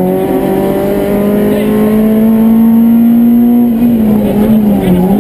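Citroën Saxo rally car's engine heard from inside the cabin, running hard at a high, steady pitch. The note dips briefly just at the start and again about four and five seconds in, then climbs back.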